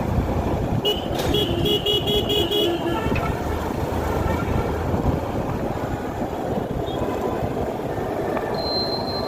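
Old Royal Enfield Bullet single-cylinder motorcycle engine running steadily, with a vehicle horn beeping rapidly about five times a second or so in.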